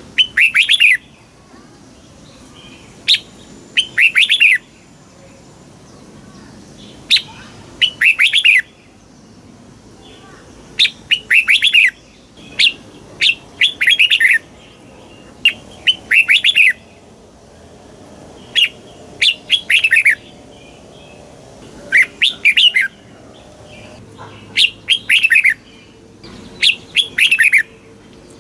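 Red-whiskered bulbul singing: short, rippling whistled phrases repeated every second or two, many led by a sharp high note.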